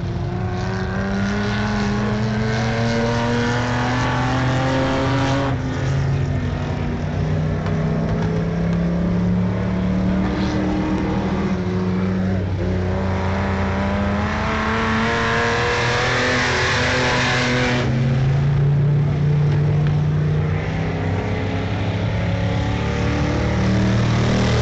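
Vintage race cars' engines running at speed around a dirt oval, several engine notes overlapping and climbing in pitch as the cars accelerate out of the turns, with one car rising sharply and cutting off about two thirds of the way through.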